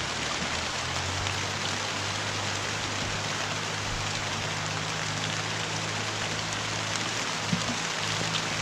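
Steady rain-like hiss, with a few faint ticks and a low, even hum beneath it.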